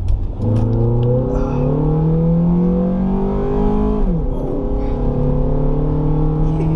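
2000 Honda CR-V's four-cylinder engine pulling under acceleration, heard from inside the cabin with the intake noise of its short ram intake; its pitch climbs steadily, drops sharply about four seconds in as the transmission shifts up, then climbs slowly again.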